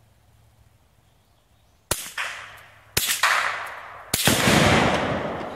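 Rimfire rifle shots setting off Sonic Boom binary exploding targets: three sharp reports about a second apart, starting about two seconds in. The last is the loudest and deepest, with a long echoing decay.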